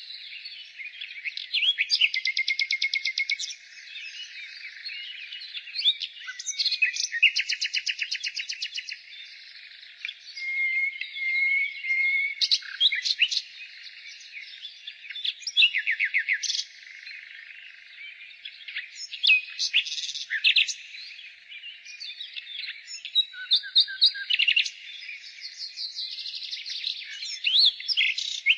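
Common nightingale singing: a string of varied phrases made of fast repeated notes and trills, separated by short pauses.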